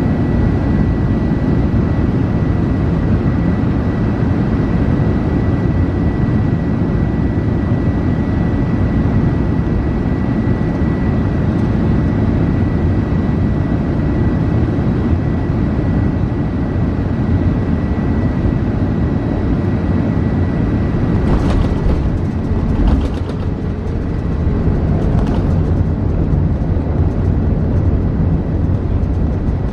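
Airbus A380 airliner cabin noise: a steady, heavy low rumble of engines and airflow, with a thin high tone that fades out partway through. A few short clicks or knocks come about three-quarters of the way in, along with a brief low thump.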